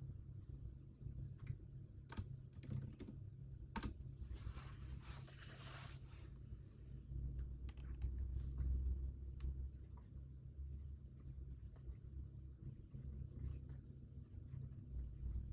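Typing on a computer keyboard: irregular runs of keystrokes with pauses between them, and a brief rustle a few seconds in.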